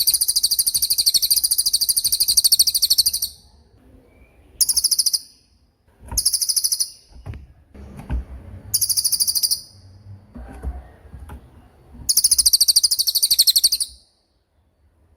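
Cililin songbird singing its 'tembakan' burst song: very high-pitched, rapid machine-gun trills in repeated bursts. One long burst of about three seconds comes first, then several shorter bursts and a longer one near the end. A faint low rumble of background noise lies between them.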